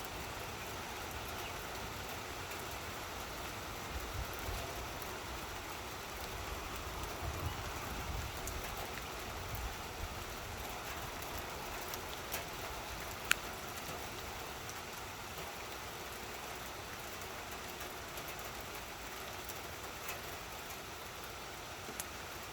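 Steady rain falling, with scattered drop ticks and one sharp click about 13 seconds in.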